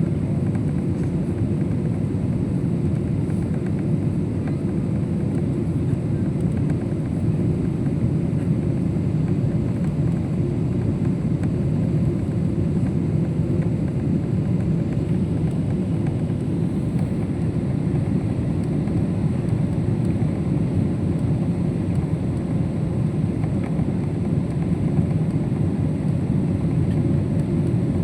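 Steady roar of a Boeing 777 airliner's engines and airflow heard inside the cabin, even and unbroken.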